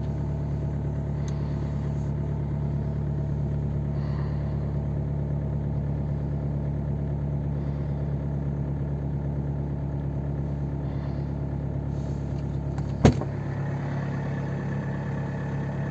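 BMW diesel engine idling steadily after a cold start in deep frost. A single sharp knock comes about thirteen seconds in, after which the engine note shifts slightly.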